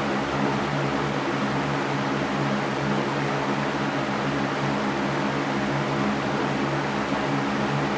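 Electric fan running steadily: an even rush of air with a constant low hum beneath it, unchanging throughout.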